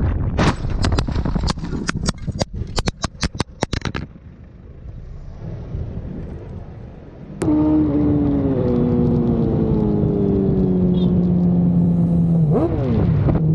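Vehicle noise with wind on the microphone and a rapid run of sharp knocks over about three and a half seconds. After a sudden click, an engine tone slowly falls in pitch, with a quick rise and fall near the end.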